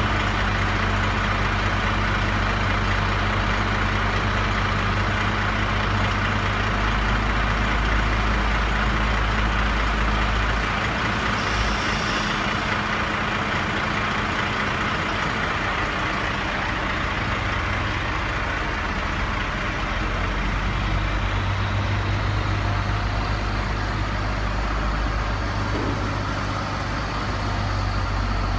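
Heavy vehicle engine running steadily at idle, a low drone under a broad mechanical rush. The drone eases off about a third of the way in and comes back louder later.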